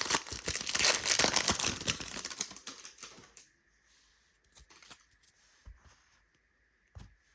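Foil wrapper of a Donruss basketball card pack crinkling and tearing as it is opened and handled, dying away after about three and a half seconds. A few faint ticks follow.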